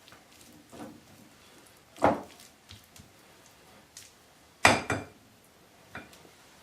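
A spoon knocking against a mixing bowl several times as spoonfuls of Greek yogurt are scooped and tapped into the chicken salad. The loudest is a double knock about two-thirds of the way through.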